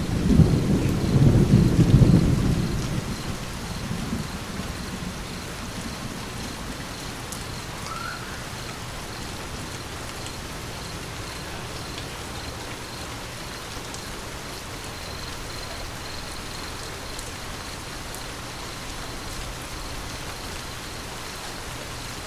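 A low thunder rumble that peaks about two seconds in and fades away over the next few seconds, over steady rain falling. The rain runs on as an even hiss once the thunder has gone.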